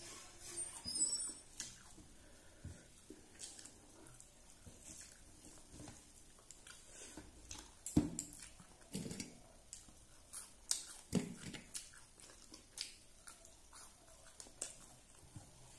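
A person eating rice with her fingers: quiet chewing and mouth noises with scattered soft clicks and smacks, a few louder ones in the second half.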